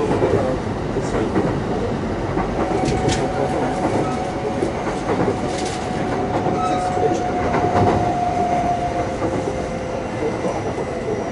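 Running sound of a Kintetsu 9820 series electric train heard from inside the car: a steady rumble of wheels on rail with occasional rail-joint clicks. Under it is a faint steady whine from the Mitsubishi IGBT VVVF inverter and traction motors.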